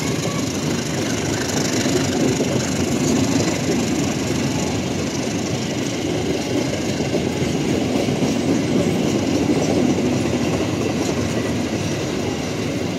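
Train wagons passing close by, a steady rumble of steel wheels running on the rails.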